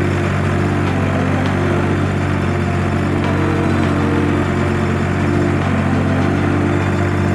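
Ford 3000 tractor's three-cylinder engine running steadily.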